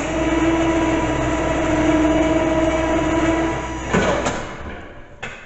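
Electric winch on a Mule utility vehicle running under load on the snow plow's cable, a steady motor whine for about four seconds that stops with a clunk, followed by a second click about a second later.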